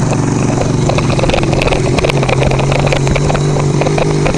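Motorcycle engine running at a steady cruising pace while riding a rough dirt road, with scattered ticks and rattles over the bumps.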